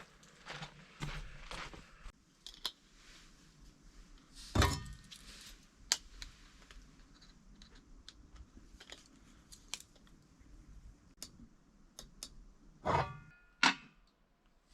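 Objects being handled: scattered light clicks and taps, with two louder knocks that ring briefly, one about four and a half seconds in and one near the end.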